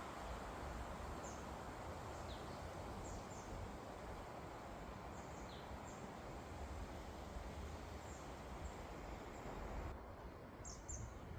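Strong coastal wind rushing through forest trees, a steady noise with a low rumble, while small birds give scattered short, high chirps, some falling in pitch.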